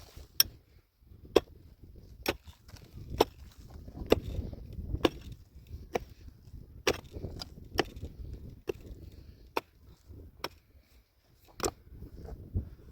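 Repeated blows of a tool striking wood, about one a second at an even pace.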